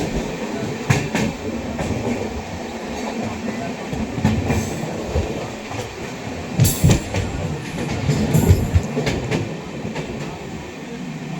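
Express train running along the line: a steady rumble of wheels on track, broken by a few sharp clacks as the wheels cross rail joints, the loudest about two-thirds of the way in.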